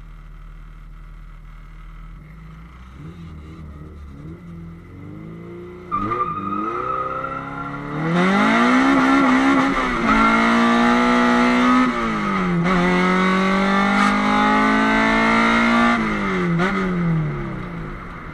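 Naturally aspirated B20 VTEC inline-four in a Honda Civic EF hatchback, heard from inside the cabin: it runs quietly for the first few seconds, then is put under load about six seconds in and gets much louder about two seconds later as it revs hard. The pitch climbs, drops at gear changes about ten and twelve seconds in, and climbs again, then falls away near the end as the throttle is released.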